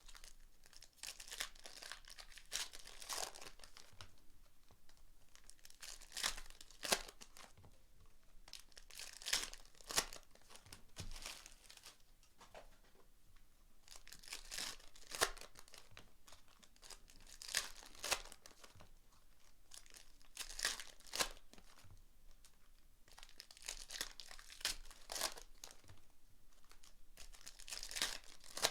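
Trading card pack wrappers being torn open and crinkled, in irregular bursts of tearing and rustling, some sharper rips among them.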